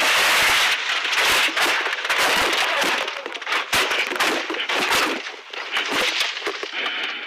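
A rally car crashing, heard onboard: a loud rush of noise packed with rapid sharp knocks and bangs of the body hitting and gravel striking it, easing off near the end.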